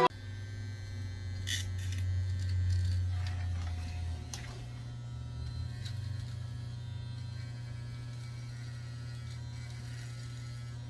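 Steady low hum, slightly louder in the first few seconds, with a few faint clicks and taps.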